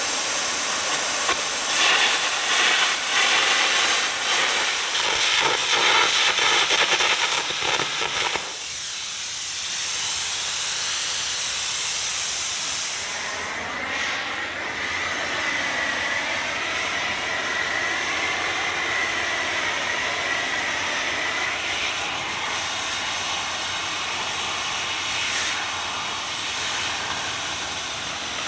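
Old steel plate being cut out of a Caterpillar D8 dozer blade with a cutting torch: a steady, loud hissing rush. The sound changes about 8 seconds in and again about 13 seconds in, when a wavering whine joins the hiss for several seconds.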